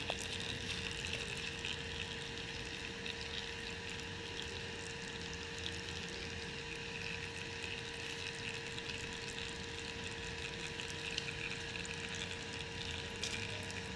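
Old fork oil trickling steadily out of the opened drain screw of a Royal Enfield Bullet front fork into a collecting container, draining under gravity. A steady low hum runs underneath.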